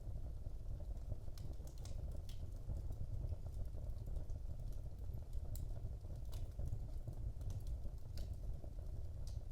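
Wood fire burning in a fireplace: a steady low rumble of the flames with scattered, irregular sharp crackles and pops, a dozen or so.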